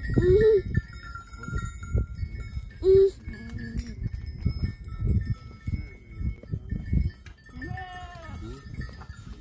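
A flock of bleating livestock with neck bells clanking, the animals calling three times: at the start, about three seconds in and near the end.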